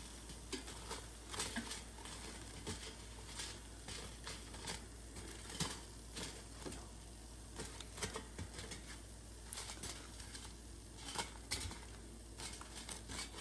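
Faint, irregular crackling and ticking from hot, freshly air-fried croquettes that are splitting open.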